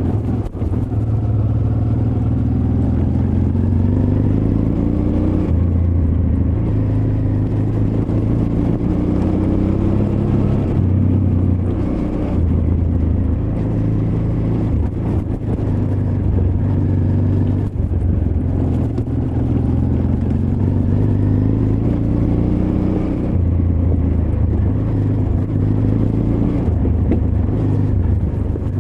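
Honda Transalp XL600V's 583 cc V-twin engine pulling under load off-road, its revs climbing and dropping back again and again with the throttle and gear changes.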